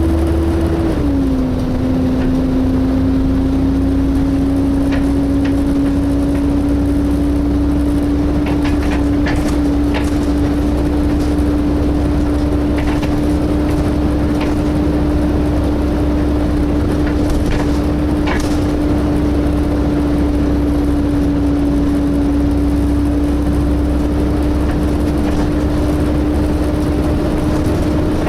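Volvo B7TL bus's engine cooling fan whining with a steady hoover-like hum that dips about a second in and then slowly rises, over the low rumble of the engine. Occasional short knocks and rattles from the bus body.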